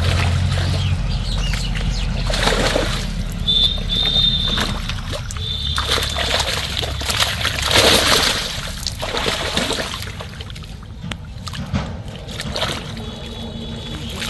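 Water splashing and sloshing in a few irregular bursts, the biggest about eight seconds in, as the cast net and the people working it move in shallow water.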